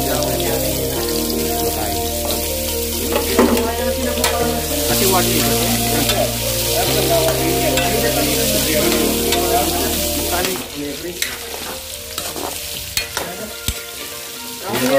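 Cubed potatoes and carrots sizzling in hot oil in a metal wok, stirred and scraped with a metal ladle. Background music with held low notes plays under it and stops about ten seconds in.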